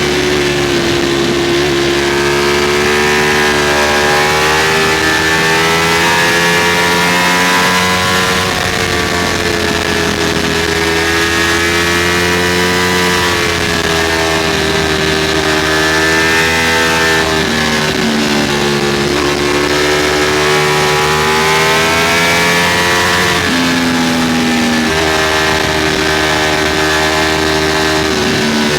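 Ducati Streetfighter V4's V4 engine running at speed, its pitch rising and falling with the throttle every few seconds, over steady wind noise.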